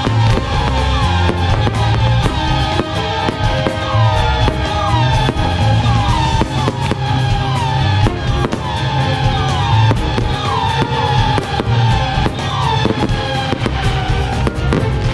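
Music with a steady beat, with aerial firework shells bursting and crackling over it throughout.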